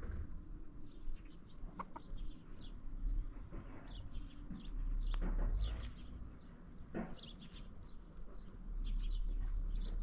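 Birds chirping, many short high calls in quick succession, over a low rumble with a few brief knocks.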